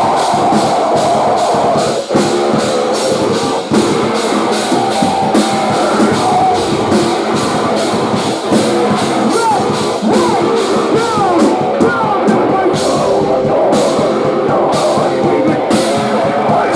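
Post-hardcore band playing live and loud: electric guitars over a drum kit.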